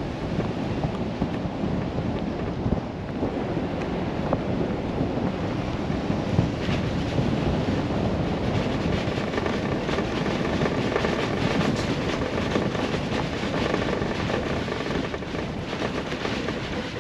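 Chevrolet Colorado ZR2 Bison pickup driving on a wet dirt road: a steady rumble of tyre and wind noise, with scattered small clicks.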